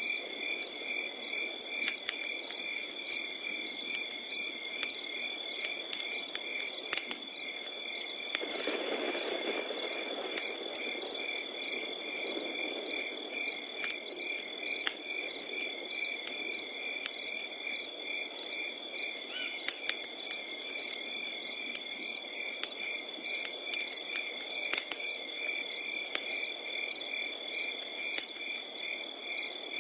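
Crickets chirping in steady, evenly pulsed trills over a continuous high insect drone, with the scattered crackles and pops of a burning wood campfire. A soft low rush of the fire swells briefly about eight seconds in.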